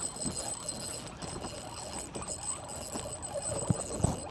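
Irregular small knocks and clicks of fishing gear against a kayak while a hooked flounder is being reeled in, with a faint steady high-pitched whine behind.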